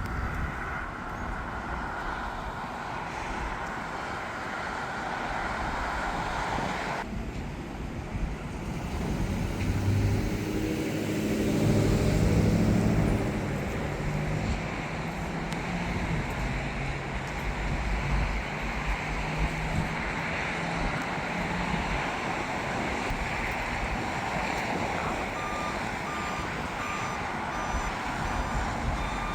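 Steady aircraft engine noise at the airfield, swelling to its loudest about ten seconds in with a low-pitched engine drone. A series of short, evenly spaced beeps, like a ground vehicle's reversing alarm, comes in near the end.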